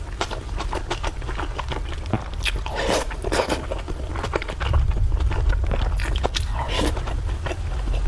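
Close-up eating sounds: a person chewing and biting food, with short clicks and scrapes of utensils against a dish.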